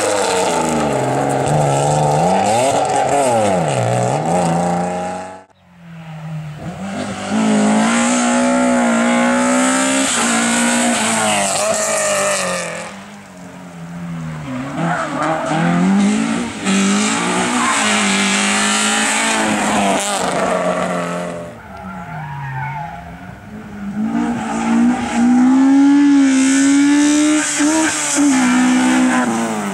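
Racing car engines driven hard, the pitch climbing and dropping again and again through gear changes and lifts as cars go by. The sound cuts off abruptly about five seconds in and resumes with another car, and it swells and fades several more times.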